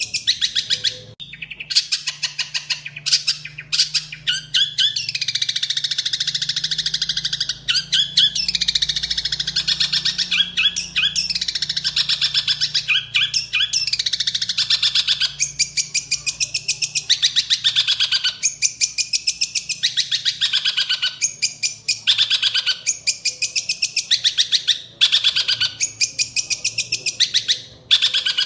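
Long-tailed shrike (cendet) singing a loud, rapid chattering song of quickly repeated harsh notes in runs of a few seconds, broken by short pauses. It is a mimic's song, filled in with imitations such as sparrow chirps.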